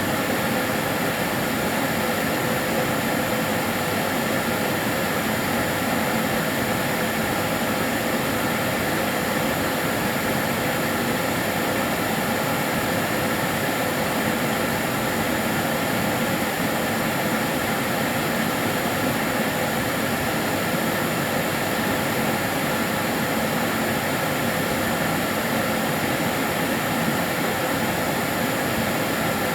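Karcher DS 6 Premium water-filter vacuum cleaner running steadily. Its motor makes an even whooshing hum with a few faint steady whining tones.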